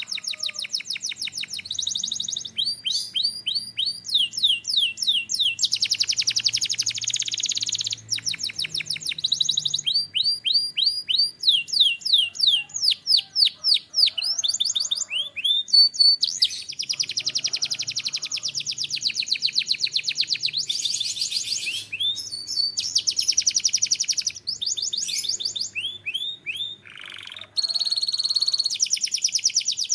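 Domestic canary singing a continuous song of fast trills, each run of rapidly repeated notes giving way to a different one every second or two.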